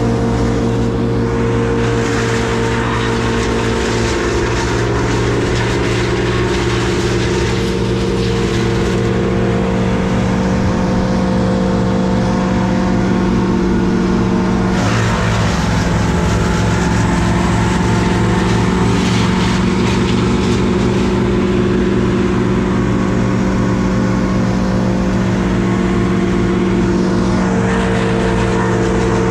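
An engine running steadily at a constant speed, with a brief change in its note about halfway through.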